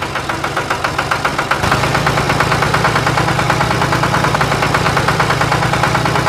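Engine running at a steady idle with a rapid, even knock. It starts abruptly.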